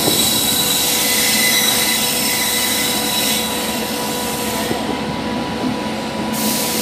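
Express train running through a station yard, heard from aboard: steady rumble and rush of the coaches' wheels on the rails, with a high steady wheel squeal over the first three seconds or so.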